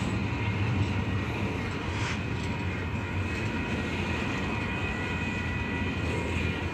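Union Pacific intermodal freight train rolling slowly past as it slows down: a steady low rumble of the diesel locomotives and rolling cars, with a few faint steady high tones over it.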